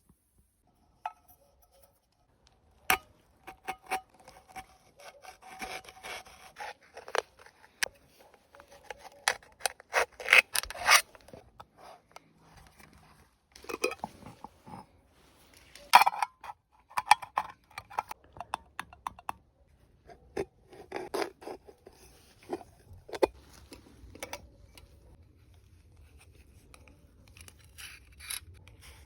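Hands working materials with tools: an irregular run of scrapes and rubs broken by many sharp clicks and knocks, with short pauses between bursts of work.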